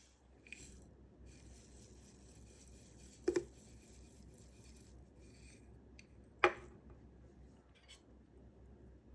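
Clear slime being handled and squished, a soft sticky crackle throughout, with two sharp pops about a third and two thirds of the way through.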